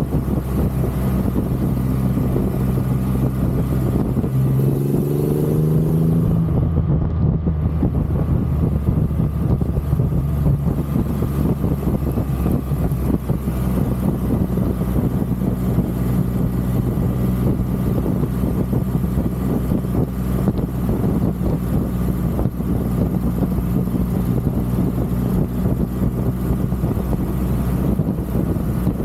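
Triumph Rocket 3's three-cylinder engine running under way, with rushing wind. Its revs climb for a couple of seconds about four seconds in, then drop back and hold steady.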